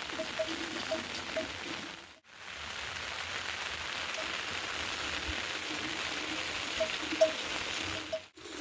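Steady rain falling, with a few short high chirps over it. The sound drops away briefly twice, about two seconds in and near the end.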